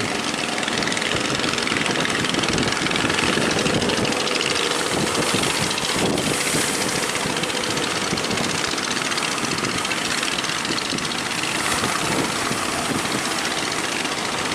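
Fishing boat's engine running steadily, mixed with a constant loud rushing noise.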